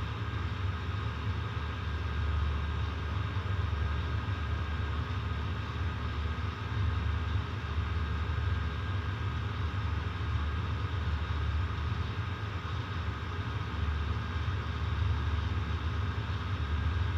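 Outdoor air-conditioner condenser unit running, its compressor making a steady grinding noise over a low hum. The compressor is failing, which the owner puts down to damaged internal scrolls.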